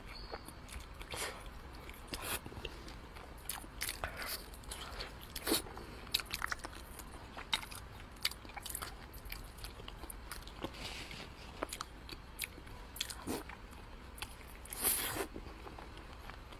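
Close-miked chewing and biting of braised pork, with irregular smacks and clicks of the mouth.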